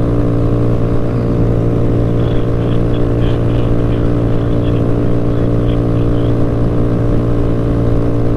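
Motorcycle engine running loud and steady at a constant speed, with no revving or shifting, as when cruising.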